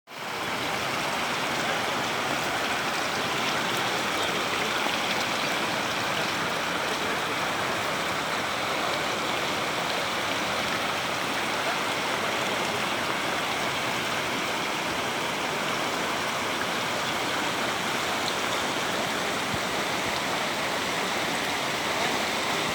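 Floodwater rushing steadily in a swollen river in spate, a continuous even wash of water noise.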